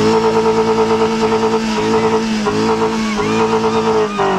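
Car engine revved hard and held at high revs with a few brief dips, then let fall back toward idle at the end.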